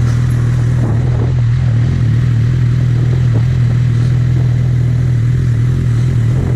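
Suzuki GSX650F's inline-four engine running at a steady, even pitch while the bike cruises, with a haze of wind and road noise over it.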